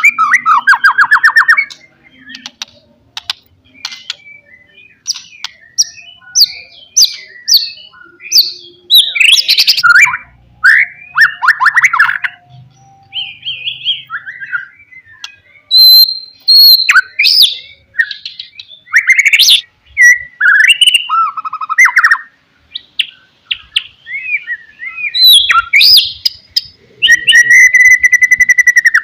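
White-rumped shama (murai batu) singing a long, varied song of loud whistled phrases, sweeping notes and fast trills, with short pauses between phrases.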